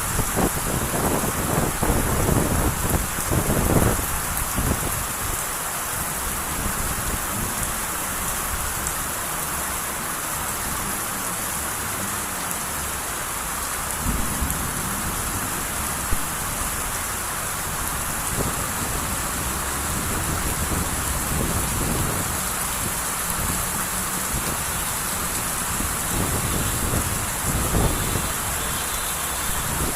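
Heavy downpour hissing steadily, with low thunder rumbling strongest in the first four seconds and fainter swells later.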